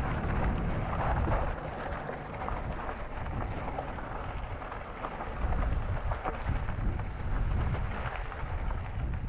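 Wind buffeting the microphone with a heavy, uneven rumble and rushing hiss.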